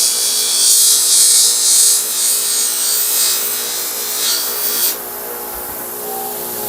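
Screwdriver being polished against a powered buffing wheel: a loud, rough hissing rub that stops suddenly about five seconds in, while a steady motor hum carries on.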